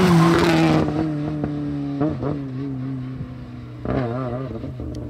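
Rally car engine passing on a special stage. A loud run with wide hiss cuts off about a second in, then the engine note sinks steadily, with short throttle blips about two and four seconds in.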